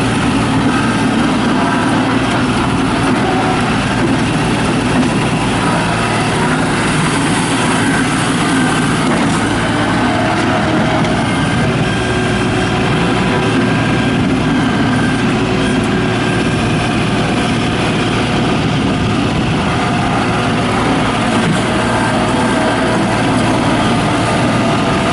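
Diesel engine of a New Holland LS180 skid steer loader running steadily.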